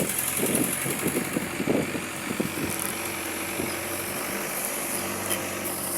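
A motor vehicle's engine running steadily as it drives along, with some irregular knocks or rattles over the first half.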